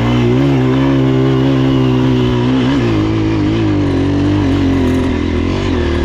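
Honda CRF230F's air-cooled single-cylinder four-stroke engine running under load, its note steady at first and then dipping and rising a little in pitch.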